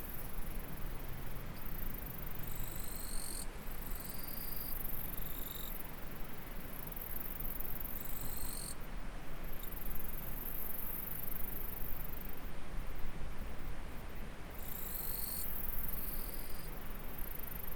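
Insects shrilling steadily at a very high pitch, with brief breaks, over the steady rush of a flowing stream. Clusters of short, high, steady notes come in a few seconds in, again around eight seconds, and near the end.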